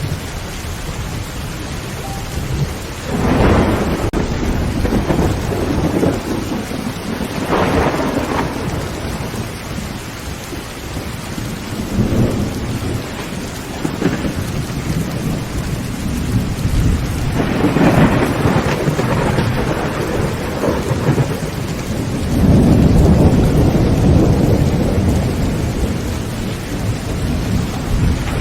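Heavy rain falling steadily on a tin tent roof, with thunder rolling in several times; the loudest is a long, deep rumble a little past two-thirds of the way through.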